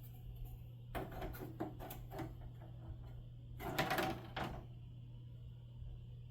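Light clicks and knocks of small objects being handled, then a louder scraping rustle about four seconds in, over a steady low hum.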